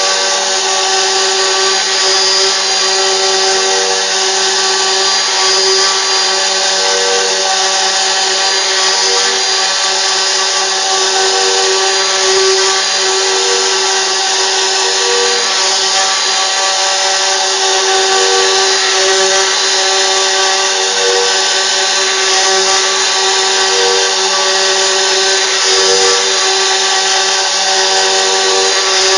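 CNC router running: the spindle whines steadily at several fixed pitches as it cuts, with short middle-pitched tones coming and going every second or two as the machine moves.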